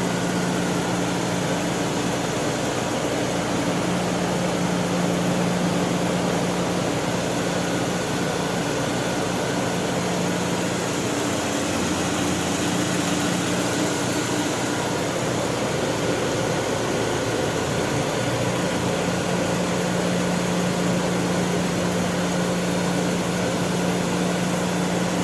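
BMW E36 12-inch auxiliary electric cooling fan running at speed: a steady, loud whoosh of moving air with a low hum that fades out briefly a couple of times.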